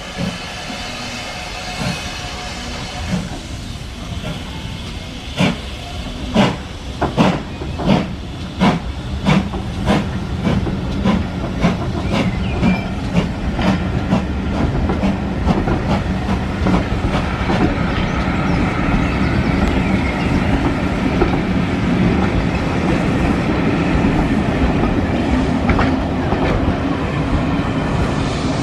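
Steam-hauled passenger train pulling out, its coaches rolling past close by. The wheels click over the rail joints, slowly at first and then faster as the train gathers speed, merging into a steady rumble of wheels on track.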